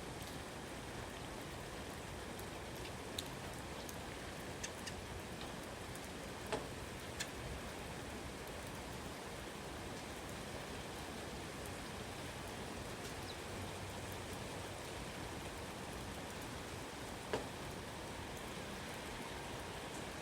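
Steady rain falling, with a handful of louder single drops landing close by.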